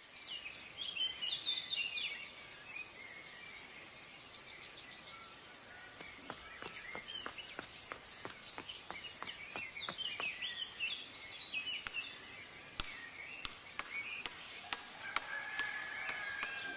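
Outdoor ambience with small birds chirping over a steady faint background hiss. Through the middle and latter part there is a run of quick sharp ticks, a few a second.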